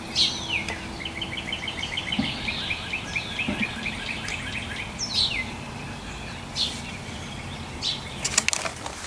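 Songbirds calling: a few quick falling whistles and a fast, even run of chirps lasting about three seconds, with a few sharp clicks near the end.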